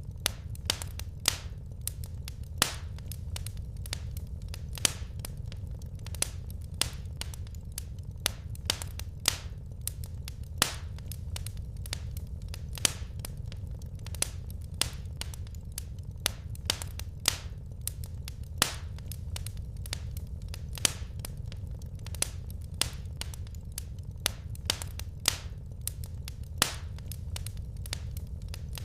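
Wood fire crackling in a fireplace: irregular sharp pops and snaps, several each second, over a steady low rumble.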